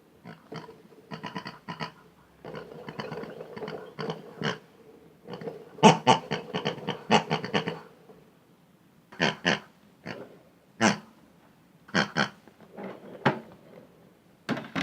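Pig-style oinking and grunting in short bursts: rapid runs of grunts through the first half, then single oinks about once a second.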